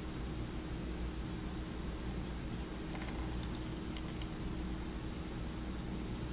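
Steady background hiss with a low hum, like a fan or distant traffic, with a few faint short high ticks about three to four seconds in.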